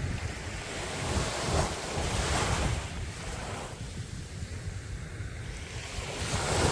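Sea waves breaking and washing up a beach, one wave swelling to its loudest about two seconds in, with wind rumbling on the microphone. The sound cuts off suddenly at the very end.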